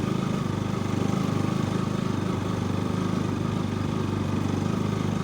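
Motorcycle engine running steadily while being ridden, with a fast, even pulse of its firing.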